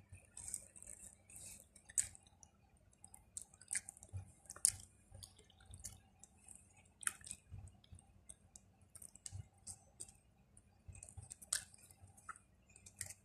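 A person chewing fried chicken nuggets close to the microphone: quiet, irregular crunches, clicks and wet mouth sounds, a few a second.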